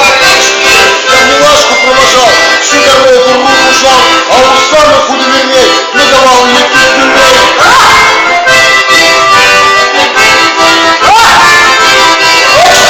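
Accordion playing a traditional folk tune, its reeds holding many notes at once.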